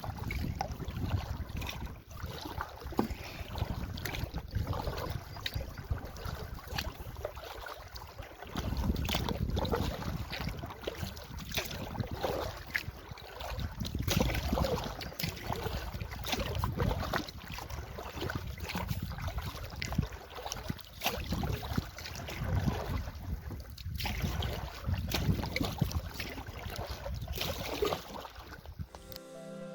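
Wind buffeting the microphone over water splashing and lapping around a canoe under way, with scattered irregular clicks and splashes.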